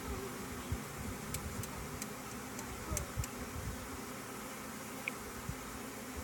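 Honeybee swarm buzzing, a steady low drone of many bees, with a few light clicks about one to three seconds in.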